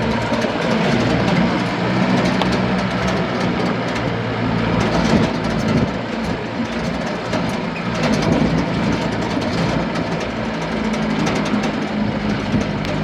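Truck engine running steadily with a low hum, under a constant noisy hiss.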